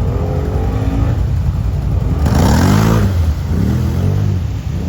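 Quad (ATV) engine running and revving, its pitch climbing about two seconds in together with a loud burst of rushing noise, then easing off.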